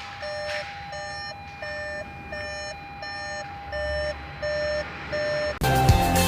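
Electronic beeping: a short pitched beep repeating about every 0.7 s over a steady higher tone, eight beeps in all, until music comes in near the end.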